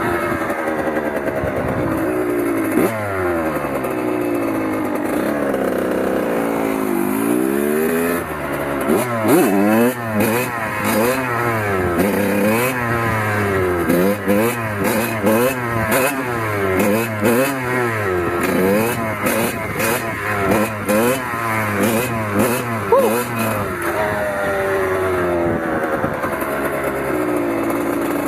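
Kawasaki KX100 single-cylinder two-stroke dirt bike engine revving up and falling back again and again as the throttle is worked. The rises and drops come fast through the middle stretch, and the pitch holds steadier near the end.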